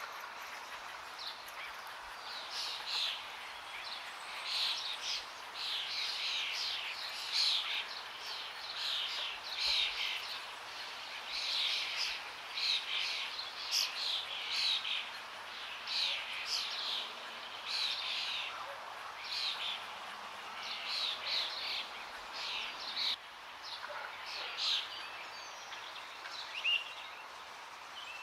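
Forest songbirds singing short, repeated chirping phrases every second or so, over a steady background rush of flowing water.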